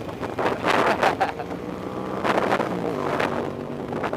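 Dirt bike engine running steadily, with wind buffeting the microphone.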